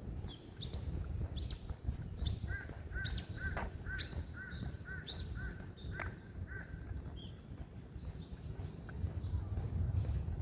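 Birds calling in a forest: one bird gives a run of short, evenly repeated notes for a few seconds, about two or three a second, while another adds scattered higher chirps. A steady low rumble sits underneath.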